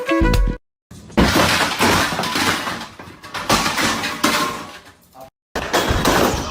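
A crash with glass shattering and pieces clattering, dying away over a few seconds, followed after a short break by more crashing noise.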